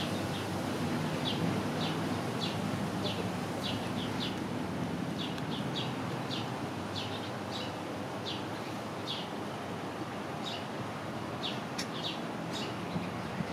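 Small birds chirping: short high chirps, roughly two a second at an uneven pace, over a steady background hum.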